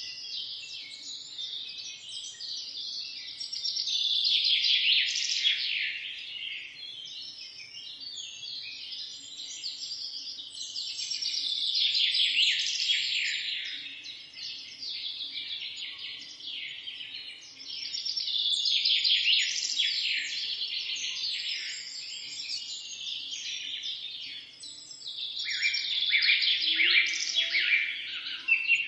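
A chorus of songbirds chirping and singing, many quick overlapping notes, swelling louder in waves about every seven seconds.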